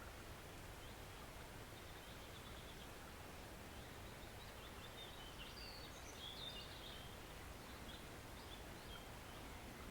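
Faint, steady flow of a small forest stream, with birds chirping high over it, most busily around the middle.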